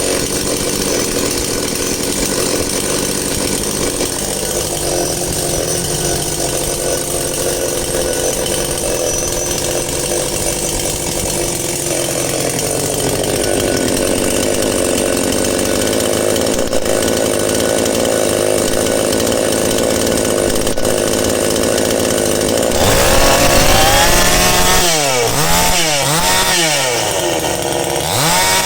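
Petrol chainsaw's two-stroke engine running steadily, its pitch rising a little about twelve seconds in, then revved up and down again and again over the last several seconds.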